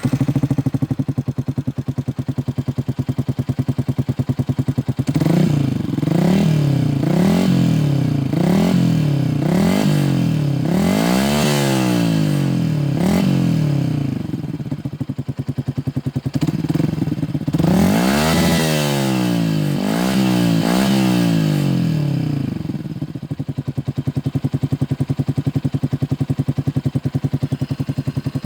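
Yamaha Xabre single-cylinder motorcycle engine breathing through an aftermarket Tridente F22 carbon exhaust. It idles, then is revved in quick throttle blips, about nine in a row a few seconds in, each rising and dropping back. After a short idle comes a second run of blips, and it settles back to idle near the end.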